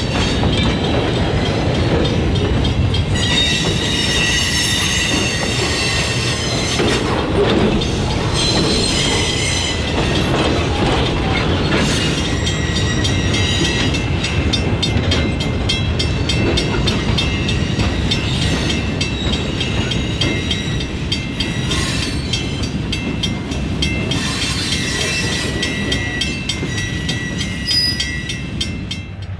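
Freight train cars rolling past, with the wheels squealing in high, shifting tones that come and go several times over a steady heavy rumble. From about halfway through there is rapid, regular clicking of wheels over rail joints.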